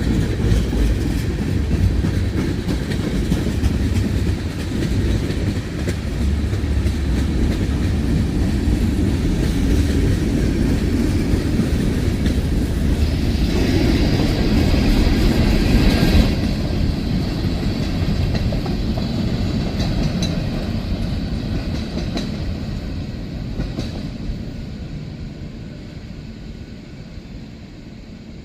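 Freight train cars rolling past, their wheels clacking over the rail joints, with a brief higher ringing about halfway through. Over the last ten seconds the sound fades steadily as the end of the train passes and draws away.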